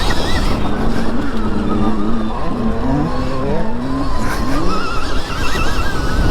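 Dirt bike being ridden around a motocross track, its motor pitch rising and falling as the throttle opens and closes, dipping lowest around the middle, over heavy wind rumble on the on-bike microphone.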